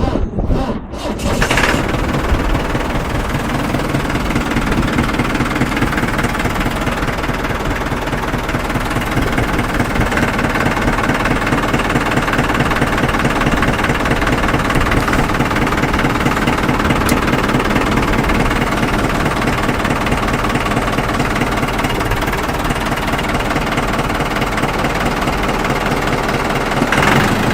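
Case C80's engine on a very cold start: a few cranking strokes, then it catches about two seconds in and runs steadily with a rapid firing beat. There is a brief louder surge near the end.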